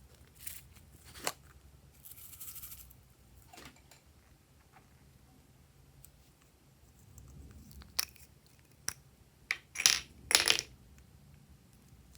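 Glossy slime being squeezed and stretched by hand, giving scattered sticky clicks and pops, with a cluster of louder crackling pops about ten seconds in.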